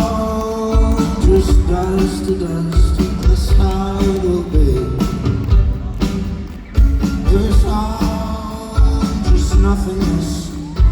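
Live folk-rock band playing in an arena: a steady, heavy kick-drum beat under long held notes.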